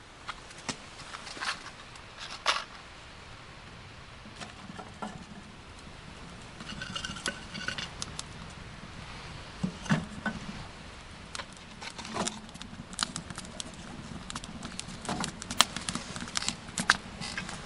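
Scattered light clicks, taps and small knocks at irregular intervals, growing busier after about six seconds.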